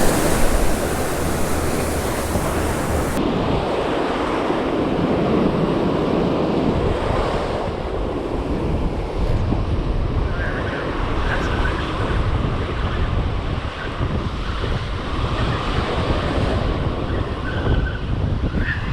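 Ocean surf washing on a beach, with wind buffeting the microphone in a steady low rumble.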